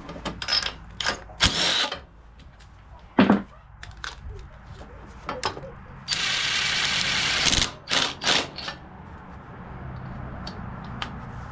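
Clicks and knocks of tools and parts being handled over a faint steady low hum, with a hiss about six seconds in that lasts about a second and a half.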